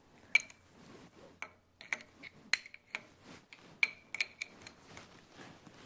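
Small metal parts being handled: an irregular series of sharp metallic clicks and clinks with a short ring, the loudest about half a second in and again about four seconds in.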